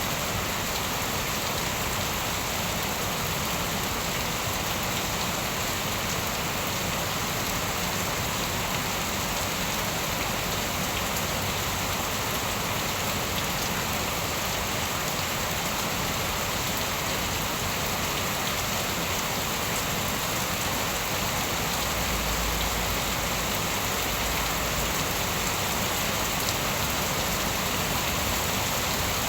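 Steady rain falling: an even, unbroken hiss of raindrops on surfaces, with a short low rumble about two-thirds of the way through.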